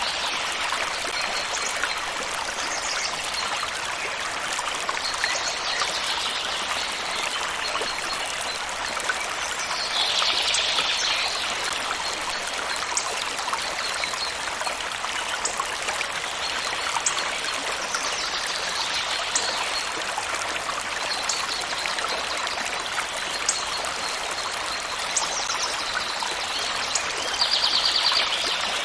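Stream water running and trickling steadily. Brief higher-pitched trills recur every few seconds over it, loudest about ten seconds in and near the end.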